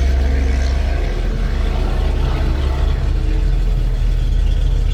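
A V8 engine idling steadily, a low even rumble that eases slightly about a second in, most likely the Mustang's 289 V8.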